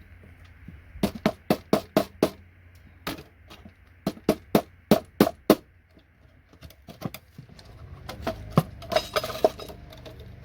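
Sharp clicks and knocks of a hand tool working connectors off a computer circuit board: two runs of quick strikes, then a softer clatter near the end.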